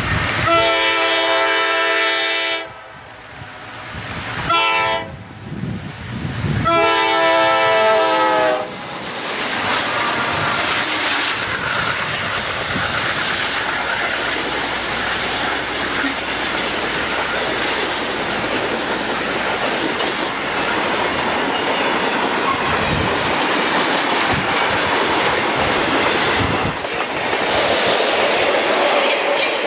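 CSX diesel freight locomotive sounding its air horn: a long blast, a short one and another long one in the first nine seconds. Then the locomotives and freight cars roll close past, with a steady rumble and wheels clacking over the track.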